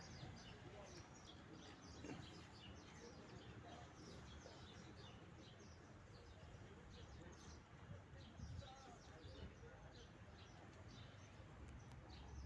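Faint chirping of small birds, many short high chirps repeating throughout over a low background rumble.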